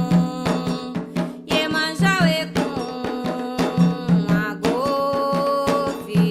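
Candomblé song for the orixá Xangô: voices singing a chant over atabaque hand drums beating a steady rhythm.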